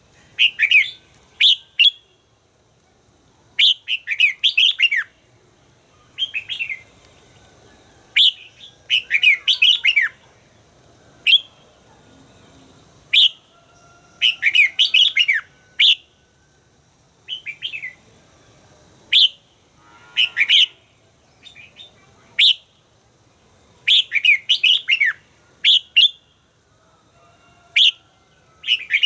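Red-whiskered bulbul singing: short phrases of quick, bright whistled notes, repeated every second or two with brief pauses between them.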